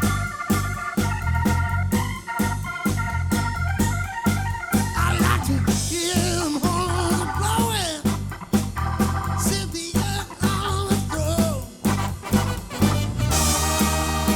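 Live soul band playing. Held chords ring over bass and a steady drum beat for the first five seconds or so, then a lead line with pitch bends and slides takes over. The arrangement changes near the end.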